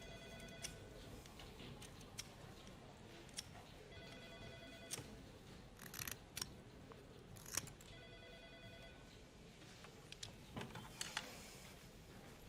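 A telephone ringing faintly: three rings about four seconds apart, each a trill of rapid pulses lasting about a second, with a few faint clicks and taps between them.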